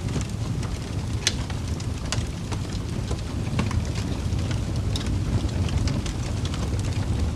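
Wood fire crackling in a fireplace: irregular sharp pops and snaps over a steady low rumble of the flames, with a few louder snaps about a second, two seconds and five seconds in.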